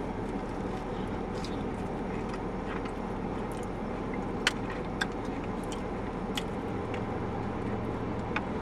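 A steady low rumble, with a few faint clicks in the middle.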